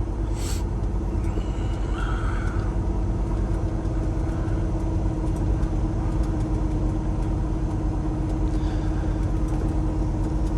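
Cummins X15 inline-six diesel of a Peterbilt 389 truck running steadily while driving: a low, even drone with a constant hum.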